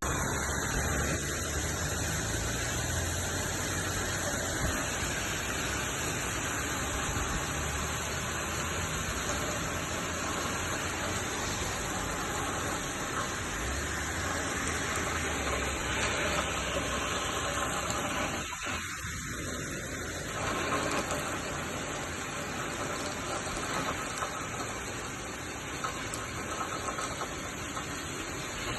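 Heavy rain and strong gusting wind, a steady rushing hiss with a low rumble underneath that briefly drops away about two-thirds of the way through.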